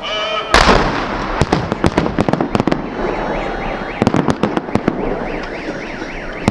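Fireworks salute going off: a loud boom about half a second in, then a steady run of sharp bangs and crackles. A car alarm wails rapidly up and down in the middle.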